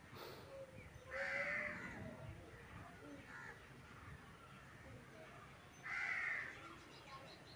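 A bird giving two loud, harsh calls, the first about a second in and the second about six seconds in.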